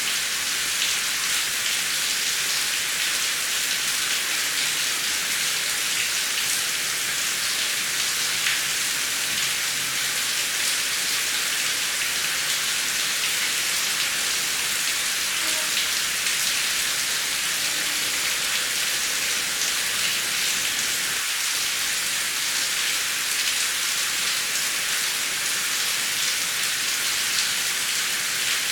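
Heavy rain falling steadily: an even hiss with the fine patter of drops on a surface.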